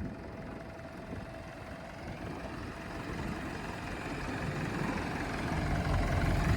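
Massey Ferguson tractor's diesel engine running as the tractor drives forward, growing steadily louder.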